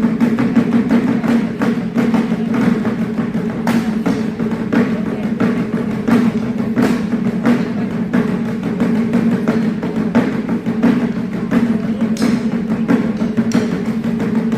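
Japanese taiko (wadaiko) ensemble drumming a steady, even beat.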